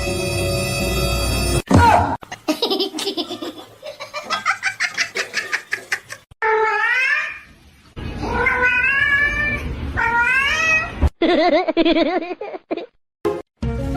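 A string of short, cut-together clips: a burst of rapid, pulsing laughter, then several drawn-out calls that bend in pitch, like a cat meowing, with music briefly at the start and again at the end.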